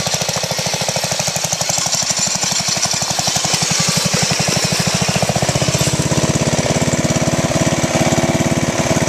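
Riding lawn mower engine running hard while being driven off-road, with a rapid, even chugging pulse; its note shifts about halfway through as the load or speed changes.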